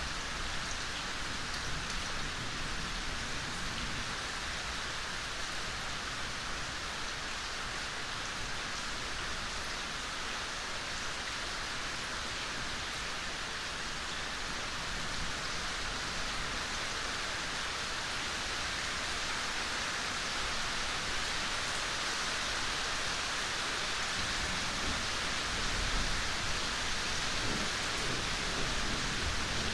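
Steady rain falling, an even hiss. A low rumble of distant thunder begins to swell near the end.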